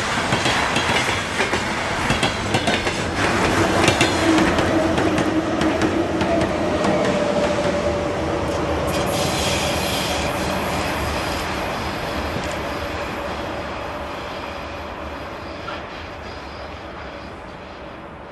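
3ES5K "Ermak" three-section electric pusher locomotive running past on the rails, with wheel and rail noise and a held whine over the rumble in the middle, fading steadily as it moves away in the second half.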